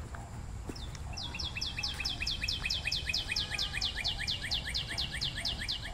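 A songbird singing a long, rapid trill of down-slurred whistled notes, about six a second, starting a little over a second in and running for about four and a half seconds.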